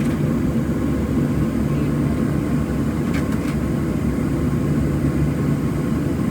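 Cabin noise inside a Boeing 737-700 taxiing, its CFM56-7B engines at idle: a steady low rumble with a constant hum, and two faint clicks about three seconds in.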